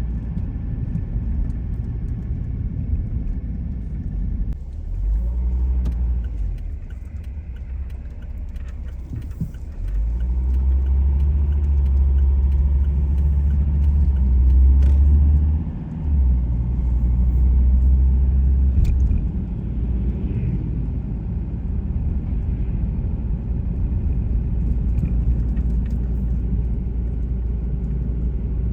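Car driving on the road: a steady low rumble of road and engine noise. It grows louder from about ten seconds in and dips briefly near sixteen seconds.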